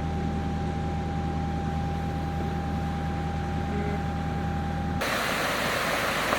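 Steady drone of a vehicle being driven, a low engine and road hum with a faint steady whine above it. About five seconds in it cuts off abruptly to a louder, even hiss.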